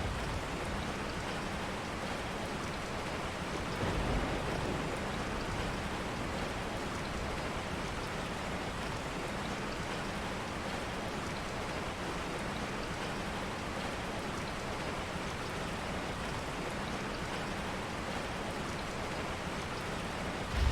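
Steady rain, an even hiss of falling drops, with a brief low swell about four seconds in.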